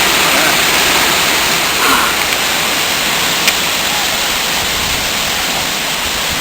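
Steady rush of heavy rain and wind during a severe storm, an even noise without any rise or break.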